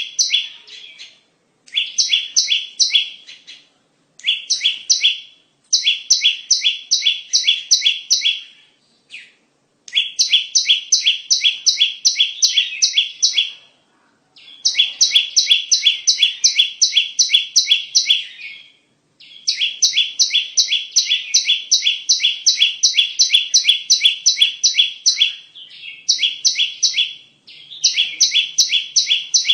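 Bar-winged prinia (ciblek) calling: fast runs of sharp, evenly repeated notes, about five a second, in phrases of one to four seconds broken by short pauses. It is a lure call for trapping ciblek.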